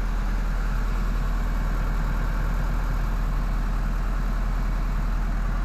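Engine idling steadily, an even low running sound that doesn't change.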